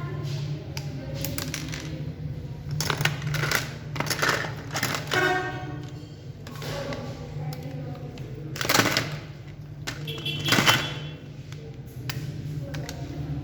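Irregular clicks, knocks and rattles of small robot-model parts being handled and taken apart, over a steady low hum; the loudest knocks come about nine and ten and a half seconds in.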